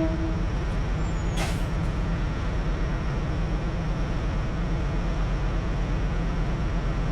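Semi truck's diesel engine running with a steady low rumble, with one short hiss of air about a second and a half in.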